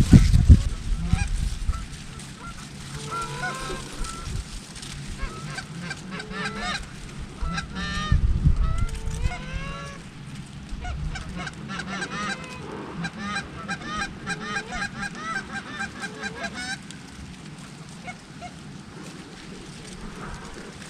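A large flock of geese honking, many birds calling over one another, with a stretch of dense, rapid honking in the middle. A low rumble swells at the start and again about 8 seconds in.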